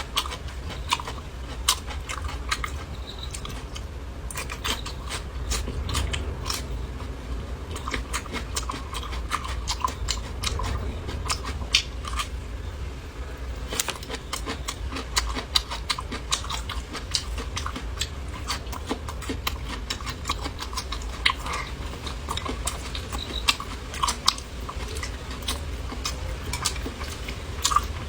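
Close-miked eating: chewing and biting with many small irregular clicks and crunches, over a steady low hum.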